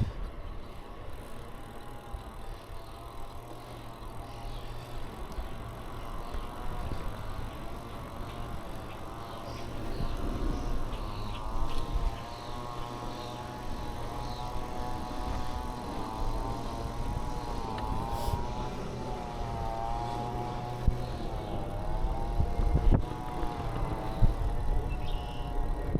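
Bicycle being ridden: a steady low rumble of wind on the microphone, with a humming tone that wavers up and down in pitch through the second half and a few sharp clicks.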